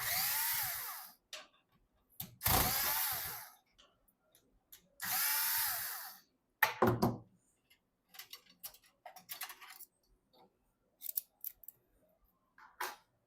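Electric screwdriver driving screws in three short runs of about a second each, its motor whine rising and falling with each run, followed by a few light clicks and knocks of parts being handled.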